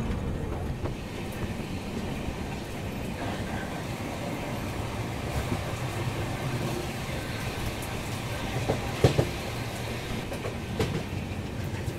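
Passenger train running: a steady rumble of wheels on the rails with scattered clicks, and a sharper clack about nine seconds in.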